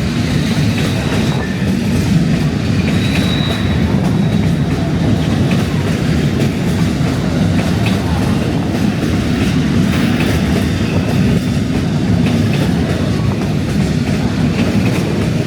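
Metre-gauge train running along the track: a steady low rumble of wheels on rail, with faint scattered clicks.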